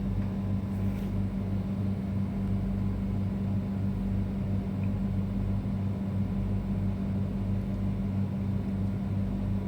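Steady low hum holding two fixed pitches throughout, with no clear ratchet clicks above it.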